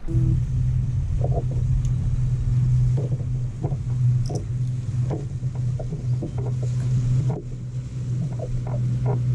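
A boat's motor running with a steady low hum, with light knocks and clicks over it.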